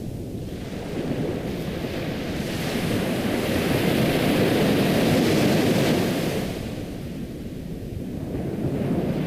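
Ocean waves: the rush of surf swells to a peak in the middle and washes away, then the next wave starts to build near the end.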